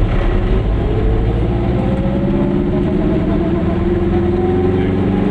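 Goggomobil's two-stroke twin-cylinder engine pulling the car along, its pitch rising steadily as it accelerates, over a steady low rumble.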